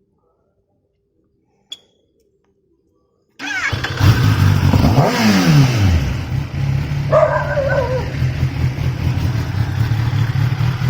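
Kawasaki ZX-10R's inline-four engine with a loud exhaust starting suddenly after near silence, about three and a half seconds in, then revving, dropping back in pitch and settling into a steady idle.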